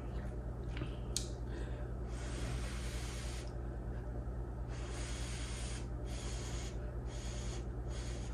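Mouth sounds of a person eating noodles: breathy, hissing slurps and sniffs in several stretches of about half a second to a second and a half each, with a single sharp click about a second in. A steady low hum runs underneath.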